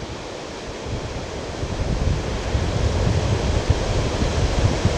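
Strong wind buffeting the camera microphone, its low rumble gusting harder from about a second in, over a steady wash of Lake Erie surf.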